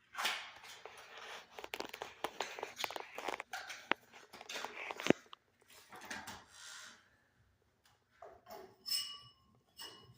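Handling noise as light bulbs are fitted into a ceiling fan's light kit: crinkly rustling and a run of sharp clicks for about five seconds, then softer rustles, and a short ringing clink about nine seconds in.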